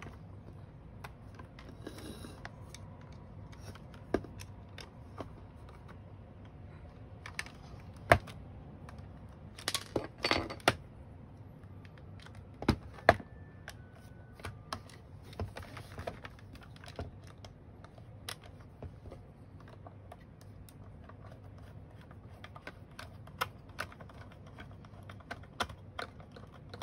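Scattered light clicks and taps from handling the plastic body of a Dyson V8 cordless vacuum cleaner, with a small cluster of them in the middle.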